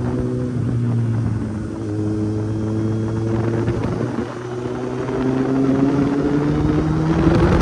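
Kawasaki Z800's inline-four engine running while the bike is ridden, over a steady rush of noise. Its pitch climbs gradually through the second half and drops suddenly near the end.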